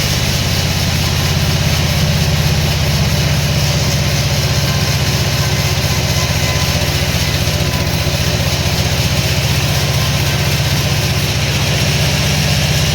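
A heavy engine running steadily at idle: a low, even drone with a fast regular pulse and no change in speed.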